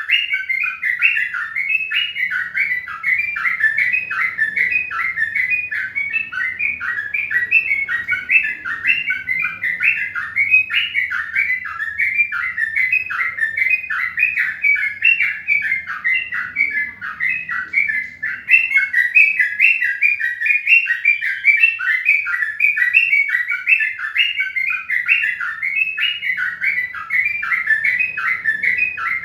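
Birds chirping in a fast, unbroken run of short notes, with a faint low hum underneath.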